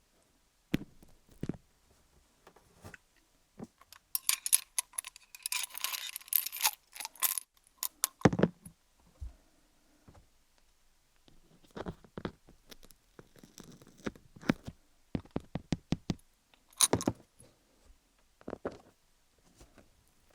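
Wooden sticks tapping and scraping on a rhinestone-studded dummy-head microphone: scattered sharp taps and clicks, with a dense bright clattering stretch about four to seven seconds in.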